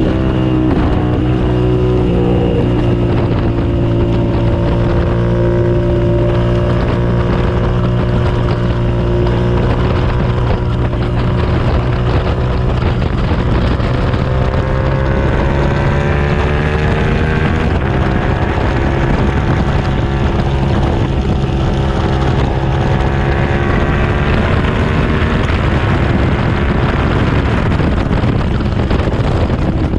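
2007 Suzuki SV650S's 645 cc V-twin engine under hard riding on a racetrack, its note rising and falling as the rider works the throttle and gears, with wind rushing over the microphone.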